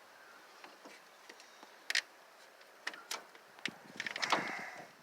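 Scattered sharp metal clicks and clinks of hand tools at work on a motorhome's battery relay and cables, ending in a short burst of rattling near the end.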